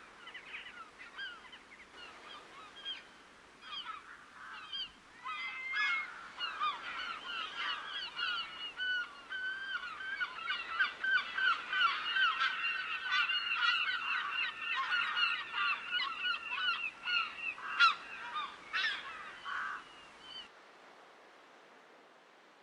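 A flock of geese honking: many overlapping calls, sparse at first, building into a dense chorus about six seconds in, then stopping abruptly near the end.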